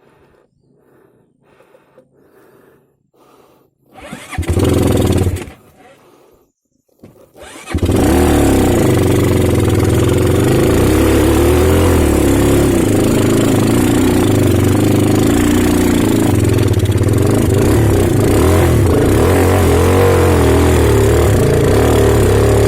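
Off-road trail motorcycle engine being started: it catches for about a second and dies, then starts again about seven seconds in and keeps running, its pitch wavering as the throttle is worked.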